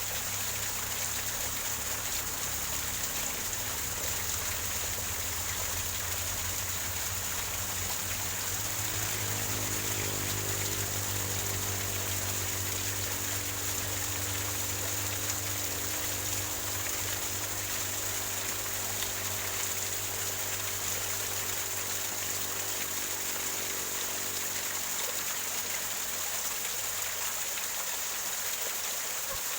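Small waterfall splashing and gurgling over rocks: a steady, even rush of water. A faint low hum sits underneath it through the middle.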